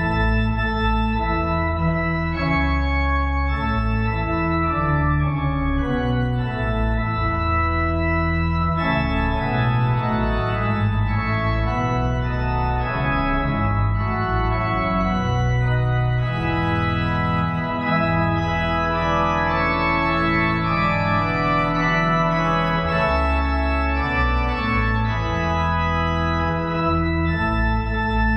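Organ music: full held chords with a strong bass line, moving from chord to chord every second or so at an even loudness.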